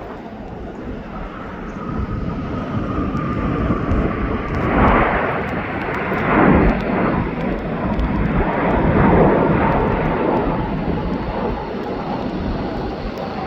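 Jet airliner engines rumbling loudly as the plane passes, the noise swelling and wavering, with a faint steady whine over it for the first few seconds.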